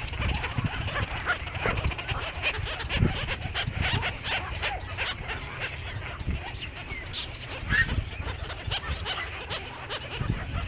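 Many small birds chirping and chattering together, with scratching and clicking and low thumps.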